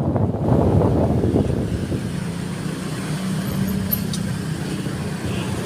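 A road vehicle running along, its engine giving a steady low hum under road and travel noise.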